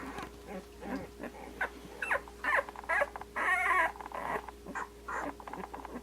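Two-week-old Australian Shepherd puppies squeaking and whimpering in a string of short, high calls, with a louder, longer squeal a little past halfway.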